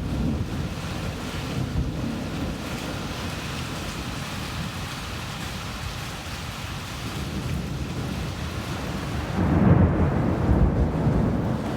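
Thunderstorm: steady rain with low, rolling thunder. A louder rumble of thunder swells up about nine and a half seconds in.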